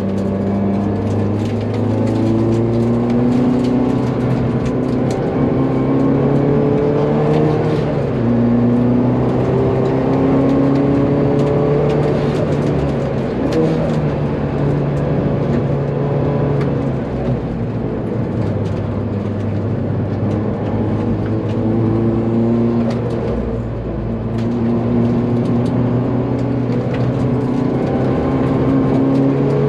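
Hyundai Veloster N 2.0-litre turbocharged four-cylinder, swapped into a 1991 Hyundai Excel body, heard from inside the cabin while driven hard: the revs climb and fall again and again through gear changes and corners.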